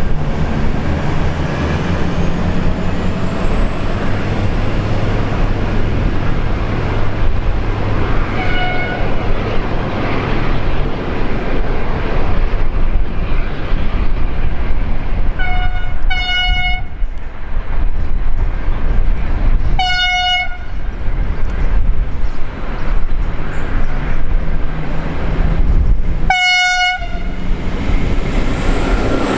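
V/Line diesel passenger train running past with a steady engine and wheel rumble. Its horn sounds several short single-tone blasts, the last and loudest near the end.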